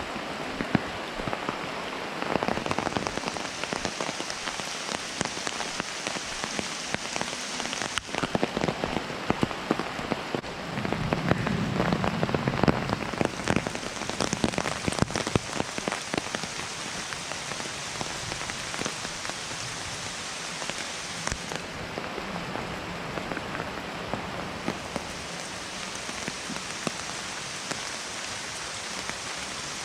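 Heavy rain falling steadily in rainforest: an even hiss with many individual drops hitting close by. It grows somewhat louder for a couple of seconds near the middle.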